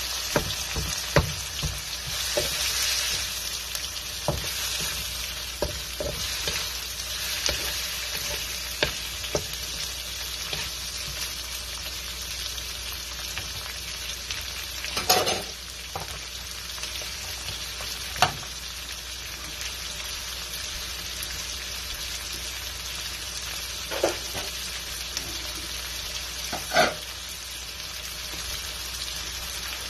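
Corned beef and sliced red onion sizzling in a steel wok. A wooden spatula scrapes and taps against the pan in quick clicks through the first ten seconds or so, and a few separate knocks follow later.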